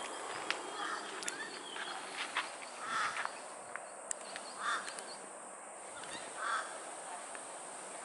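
A bird calling repeatedly outdoors: about five short calls, a second or two apart.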